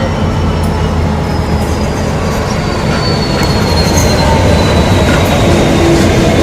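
Freightliner Class 66 diesel locomotive and its container wagons running past with a heavy steady rumble. A thin high wheel squeal slowly falls in pitch, with scattered clicks from the wheels on the rails.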